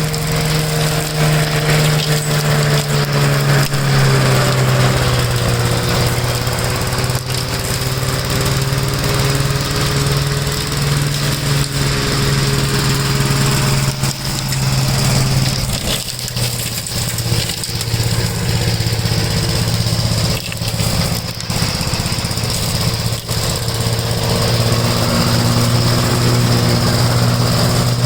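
1969 Gravely walk-behind tractor's single-cylinder engine running steadily, its pitch wavering and dipping now and then, as under changing load while mulching leaves.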